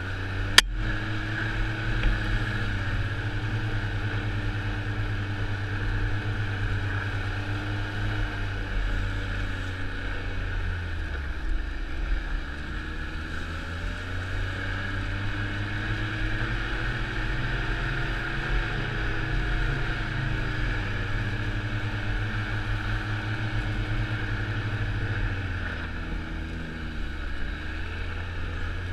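Snowmobile engine running under way, its pitch dropping and climbing back twice as the machine slows and speeds up again. A single sharp click sounds about half a second in.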